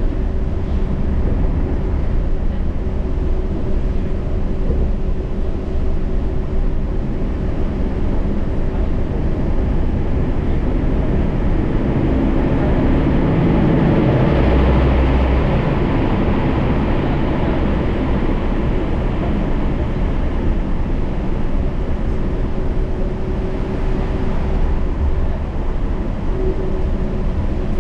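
Yurikamome rubber-tyred automated train running along its guideway: a steady rumble and tyre noise with a constant low hum. The noise swells louder and brighter for a few seconds about halfway through, then settles back.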